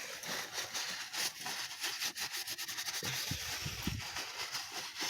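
Rubbing and scraping handling noise with many light clicks, and a few dull bumps about three and a half seconds in.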